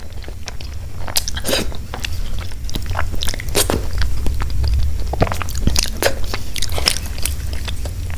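Close-miked mouth sounds of a person chewing a mouthful of food, lips closed: irregular wet clicks and soft crunches, a few every second.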